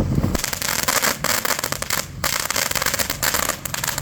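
Consumer firework crackling: a dense spray of sharp crackles that starts suddenly about a third of a second in, breaks off briefly around the middle and dies away near the end.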